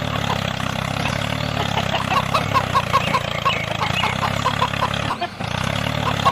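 Small motor of a DIY miniature tractor running steadily, with short high chirps repeating several times a second over it and a brief drop-out about five seconds in.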